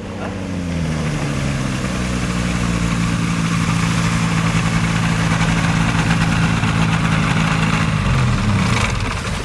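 Engine of a homemade aircraft revving up over the first second or so, running steady at high speed, then throttled back near the end.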